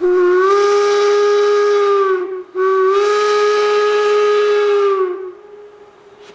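Steam locomotive whistle on 2-8-0 #111 sounding two long blasts, each a chord of several tones that bends up as it opens and sags as it closes. Two long blasts is the standard signal that the train is releasing brakes and about to proceed. A quieter hiss of steam follows.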